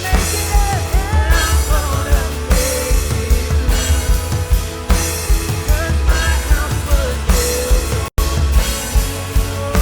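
Live worship band with drum kit, bass, guitar, piano and synth playing a steady rock beat in an instrumental passage. The sound drops out completely for an instant about eight seconds in.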